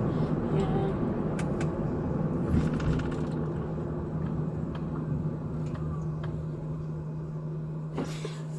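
Patrol car on the move, heard inside: a steady low engine and road drone with a constant hum, and a few faint clicks.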